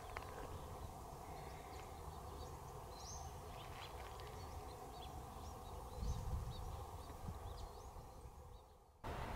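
Outdoor ambience: faint, scattered chirps of small birds over a steady low background rumble. It fades down near the end and then switches suddenly to a different steady background.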